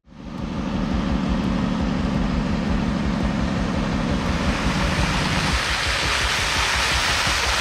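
Heavy truck engine running under load with a fast low pulsing, joined by a steady rushing noise that grows louder over the last few seconds as the engine note drops away.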